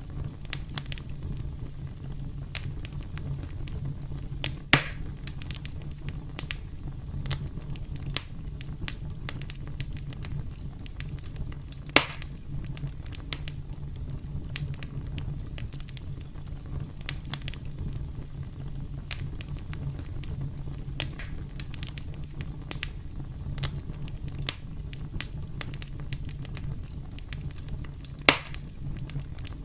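Campfire crackling: a steady low rumble of burning wood with frequent small crackles and three louder sharp pops spread through.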